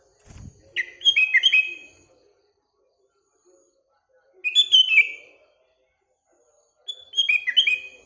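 A sooty-headed bulbul (kutilang) sings three short, quick phrases of whistled notes, each about a second long and a few seconds apart. There is a faint low thump just after the start.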